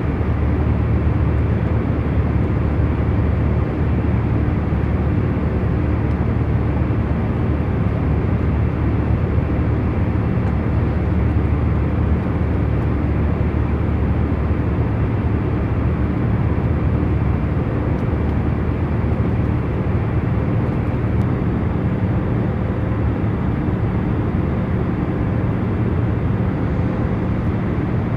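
Jet airliner cabin noise in cruise flight: a steady, even rumble weighted toward the deep end, with a few faint steady hum tones in it.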